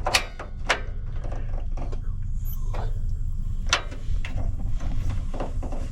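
Portable heater being started: about six sharp mechanical clicks from its control knob and igniter, spread over a few seconds, over a low steady rumble.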